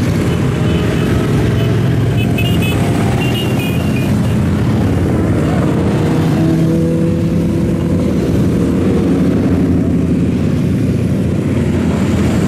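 Road traffic, motorcycles and cars, passing in a steady stream with engines running; one engine's note stands out for a couple of seconds about halfway through.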